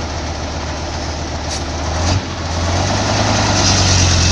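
Heavy machine's diesel engine running loud and steady, with a brief dip about two seconds in.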